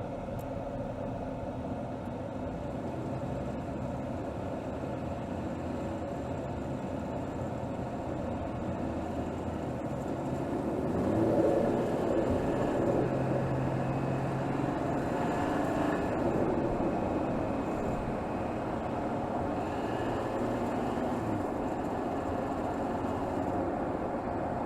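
Mercedes GLS 450's 3.0-litre turbocharged inline-six engine running in city driving, heard from under the bonnet. About eleven seconds in its pitch and loudness rise as it picks up revs, then settle back to a steady run.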